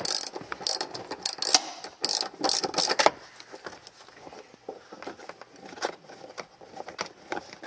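Ratchet wrench with a Torx (star) bit clicking in quick runs for about three seconds, then a few scattered, fainter clicks, as a seat belt anchor bolt is undone.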